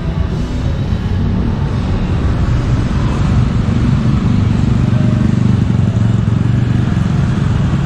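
Street traffic of motorbikes and cars running past, a steady rumble with no clear breaks.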